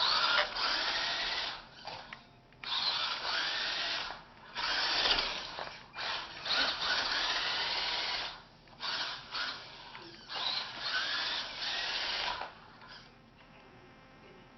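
Brushed electric motor and gearbox of a 4WD RC rock-racer truck running in short throttle bursts, about six in a row, the pitch rising and falling with each blip, stopping shortly before the end.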